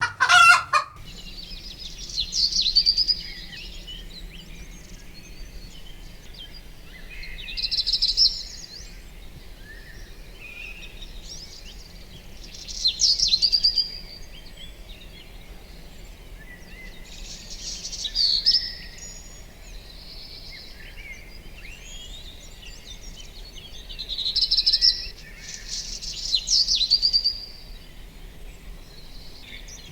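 A songbird singing short, loud, high phrases about every five seconds, with fainter chirps from other birds between them over a steady low background hum. A brief loud pitched sound opens the recording.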